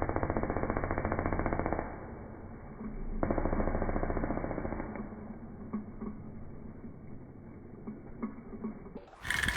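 Dirt bike engine running at high revs with a rapid pulsing beat, muffled with no treble; about two seconds in it drops away, swells again around three seconds and slowly fades.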